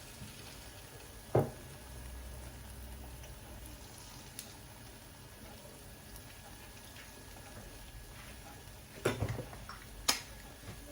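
Faint steady sizzle of an egg layer cooking on a flour flatbread in a covered frying pan. A single knock about a second and a half in, and two clattering knocks near the end.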